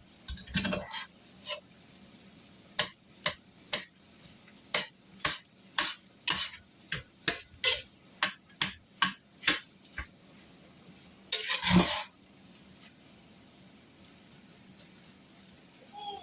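Fried rice being stir-fried: a utensil scrapes and knocks against the pan about twice a second over a steady sizzle, with one longer, louder scrape about eleven and a half seconds in.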